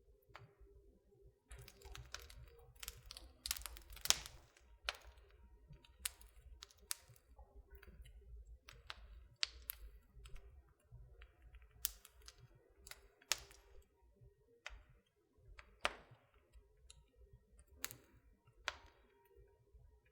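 Wood fire in a fireplace crackling: irregular sharp snaps and pops, crowded together in the first half and sparser near the end, over a soft low rumble.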